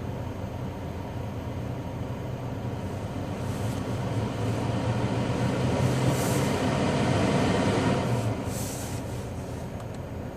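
Low vehicle rumble that swells for several seconds and falls off about eight seconds in, with a few short hisses.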